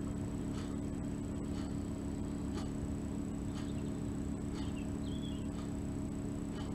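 Steady low hum with faint, scattered light clicks and taps.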